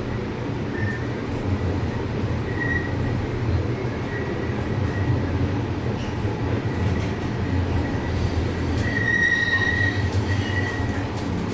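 Inside a TRAX light-rail train running along the track: a steady low rumble, with the wheels squealing in a thin high tone on and off, loudest about nine seconds in.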